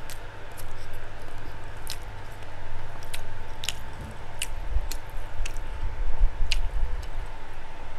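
Close-up chewing and wet mouth sounds of a person eating pork Bicol Express and rice, with about ten sharp, scattered wet clicks and smacks.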